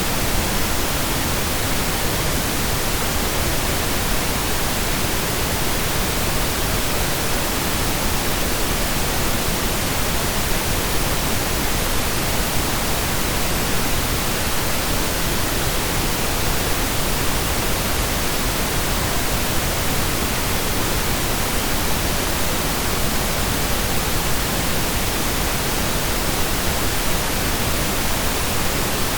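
Steady synthesized pink noise: an even, unchanging hiss spread across the whole range, like steady rain or a waterfall.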